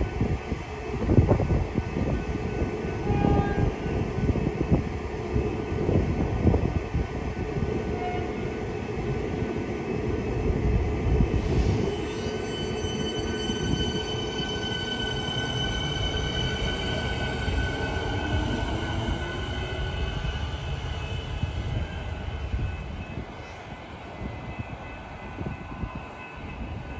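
Electric suburban train pulling away along the platform, its wheels rumbling on the rails. About halfway through, a steady high whine from its traction equipment joins in. A lower whine then rises in pitch as the train gathers speed, and the rumble fades near the end as the train clears the station.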